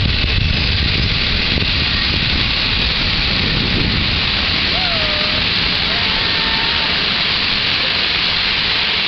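Electric-hauled passenger train pulling away, its wheels rumbling on the rails, the rumble fading over the first few seconds under a steady rushing hiss. A few faint short squeaks come about halfway through.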